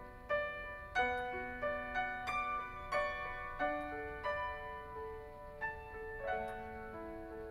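Piano playing a slow, gentle instrumental passage of sustained chords and single notes that ring and fade.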